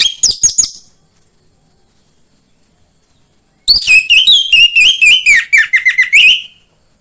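Orange-headed thrush singing: a short run of quick notes that ends just under a second in, then a long, fast phrase of varied whistled notes that slides lower near its end.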